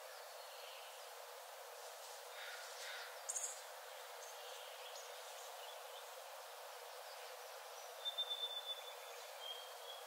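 Faint forest ambience: a steady soft hiss with scattered songbird calls. There is a short high call about three seconds in and a quick run of thin, high chirps near the end.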